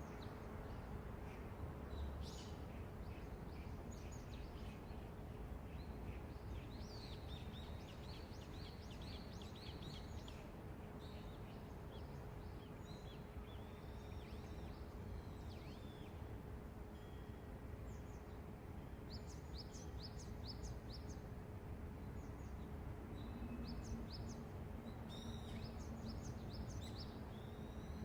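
Steady low outdoor city hum with a faint constant tone, while small birds chirp in short, quick clusters over it.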